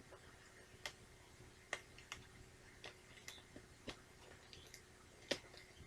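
Faint, scattered clicks and ticks of fingers picking at the shrink-wrap plastic on a VHS tape case, trying to get it open.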